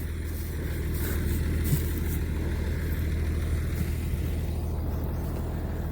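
White 2-135 tractor's Perkins V8 diesel engine running steadily while baling.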